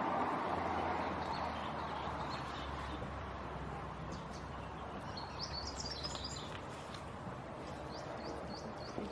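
Birds chirping over steady outdoor background noise: a quick cluster of high chirps about five seconds in, then a repeated high, down-slurred chirp about twice a second near the end.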